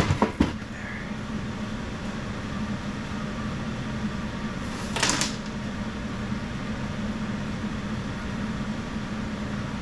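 A steady low machine hum, with a few sharp knocks in the first half second and a short noisy burst about five seconds in.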